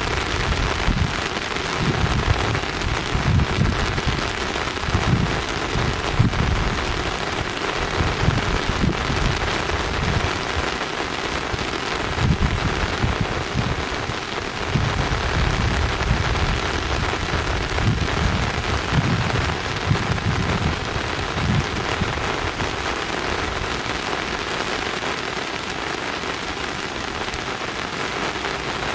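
Steady rain falling, an even hiss of drops, with irregular low rumbles that swell and fade every second or two.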